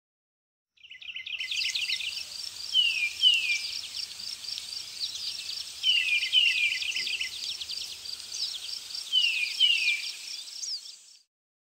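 Birdsong over an even, high pulsing chirp: pairs of down-sliding whistled notes come about every three seconds. It fades in about a second in and cuts off suddenly near the end.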